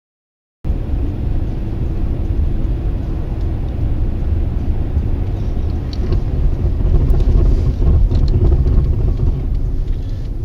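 Steady low rumble of a moving car's road and engine noise, picked up by a dash cam, cutting in abruptly just under a second in.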